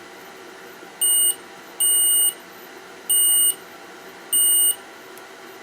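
Multimeter on continuity test beeping four times, short steady high-pitched beeps about a second apart, each beep signalling a connection between the two probed points.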